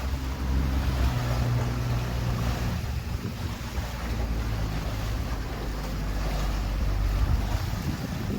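Tour boat's engine running steadily with a low hum that shifts slightly in pitch, over water splashing along the hull and wind on the microphone.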